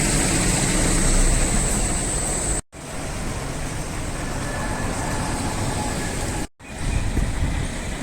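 Steady rumble of a moving vehicle, most likely a train, in three short stretches cut together. The first stretch carries a thin, high steady whine.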